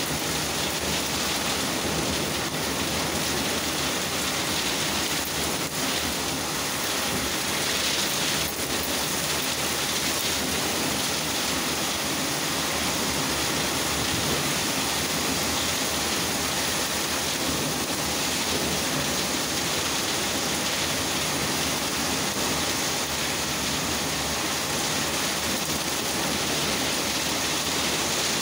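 Steady downpour of rain during a thunderstorm: a dense, even hiss that holds level throughout.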